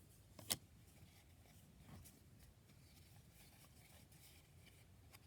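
Near silence, broken by one sharp click about half a second in and a fainter, duller knock near two seconds.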